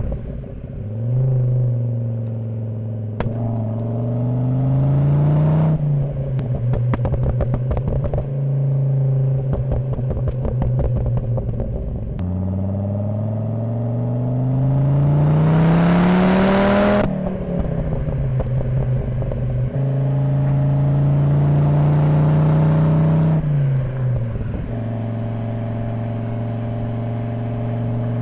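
The Volvo 850 T5's 2.3-litre turbocharged inline-five, through a Magnaflow exhaust and heard at the rear bumper, pulls up through the revs twice: once briefly, then in a longer pull rising steadily for about five seconds around the middle. Between and after the pulls it holds steady. Off the throttle, a dense crackle and clatter runs for several seconds.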